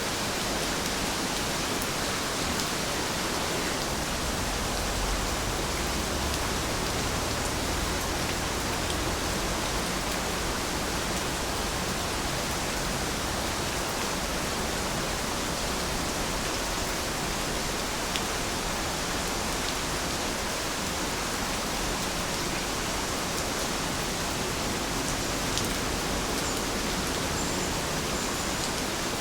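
Steady rain falling, a continuous even hiss, with a few louder single drop ticks now and then.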